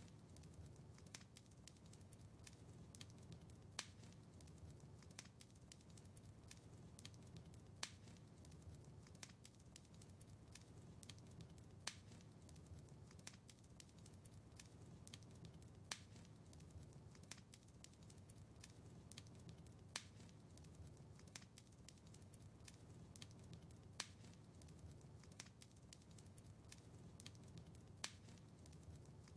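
Faint wood fire in a fireplace crackling, with many small ticks over a low steady rumble and a sharper pop about every four seconds.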